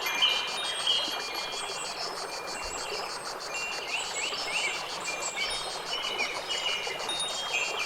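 Nature ambience: birds calling in short repeated notes, some sweeping downward, over a steady high pulsing trill of insects such as crickets and a soft background hiss.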